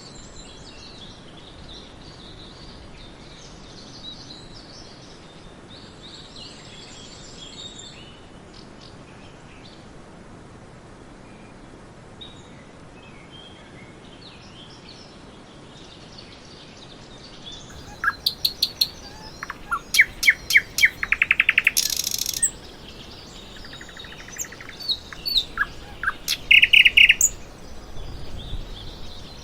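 Small birds chirping: faint, scattered chirps over a steady hiss at first, then about two-thirds of the way in, loud close chirping starts, with rapid series of sharp notes and a short buzzy call.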